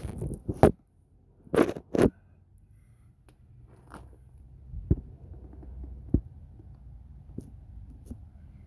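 About half a dozen scattered knocks and thumps, the loudest near the start and around two seconds in, with a faint low hum between them.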